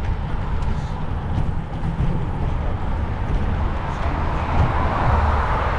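Wind rumbling on the microphone over outdoor road noise, with a hiss that swells near the end.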